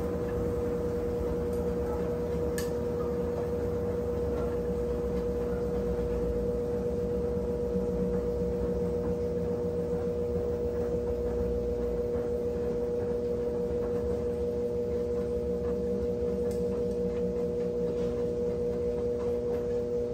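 Brastemp 17 kg washing machine running mid-cycle: a steady motor hum with a low, shifting rumble underneath.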